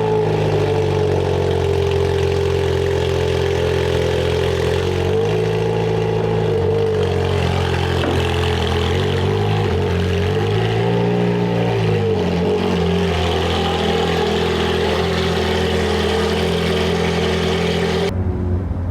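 Ferrari F430's V8 engine running at low revs just after starting. The revs rise and fall slightly a couple of times.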